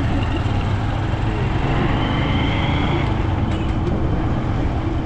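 Steady road traffic noise: a low rumble with a faint steady hum.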